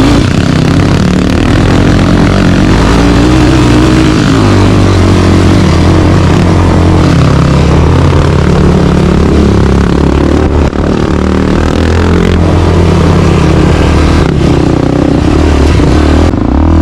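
Off-road dirt bike engine running under load on a trail, its pitch rising and falling as the throttle is opened and closed, with some clattering.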